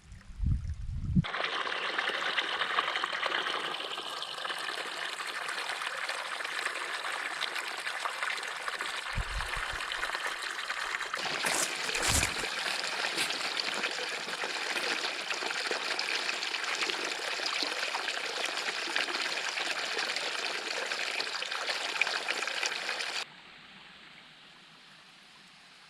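Shallow, low-flowing creek water trickling steadily, with a few low thuds around the middle; the water sound cuts off abruptly near the end.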